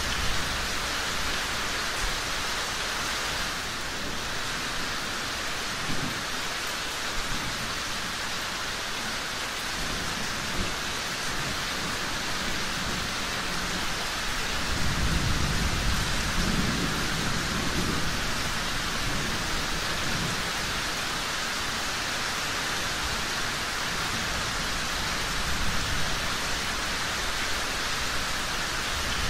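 Steady rain falling, with a low rumble of thunder swelling through the middle, from about 15 to 19 seconds in.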